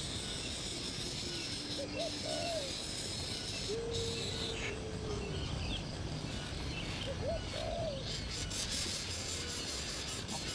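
A bird giving low calls in two similar phrases about five seconds apart: a few short notes that bend up and down, then longer level notes, over a steady insect hiss.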